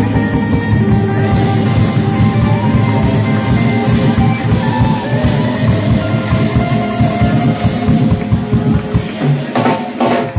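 Live rock band playing, with electric guitar, bass and drum kit, and a break in the playing near the end.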